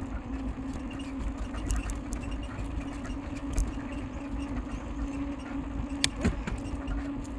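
Riding noise from a moving bicycle: wind rumbling on the microphone under a steady low hum, with scattered light clicks and one sharper click about six seconds in.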